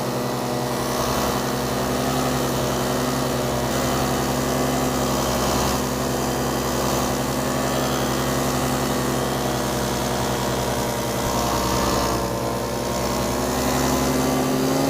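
Paramotor engine running steadily at cruise power in flight, through a newly welded exhaust.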